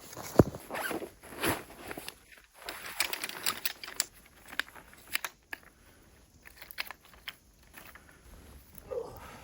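Footsteps crunching in snow, irregular and busier in the first half, sparser and fainter from about five seconds in.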